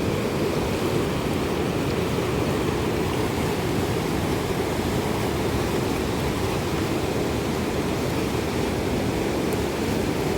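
Steady rushing of a fast mountain river, a constant deep roar of water without any breaks.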